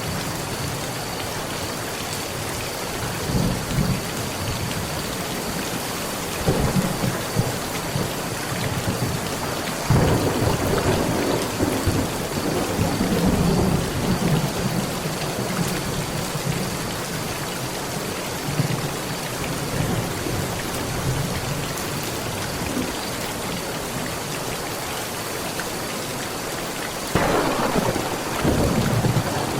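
Heavy rain pouring steadily, with several low rolls of thunder rumbling through it; the longest roll comes about ten seconds in, and another comes near the end.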